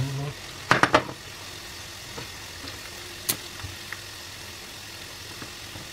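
Battered chicken pieces sizzling steadily in hot frying oil. Tongs click sharply against the pan a few times in quick succession about a second in, and once more about halfway through, as pieces are lifted out.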